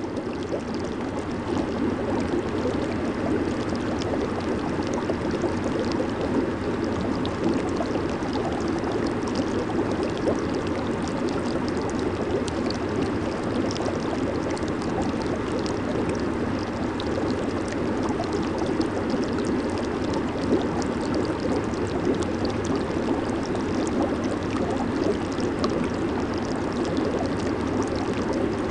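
Jacuzzi jets churning the water of a hot tub: a steady bubbling rush with fine splashy crackle. It fades in over the first second or two, then stays even.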